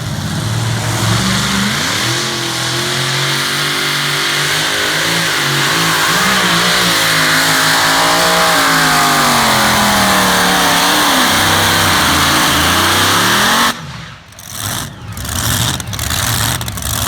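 A pulling vehicle's engine at full power during a pull, loud and steady, rising in pitch about two seconds in and wavering up and down as it works. It stops abruptly about three seconds before the end.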